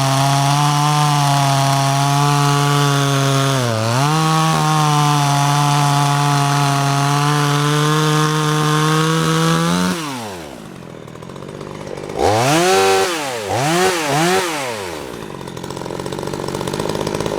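Cheap 12-inch Chinese two-stroke chainsaw running at high, steady revs through a cut in wood, dipping briefly about four seconds in. About ten seconds in it is let off and falls to idle, is blipped three times, and then idles.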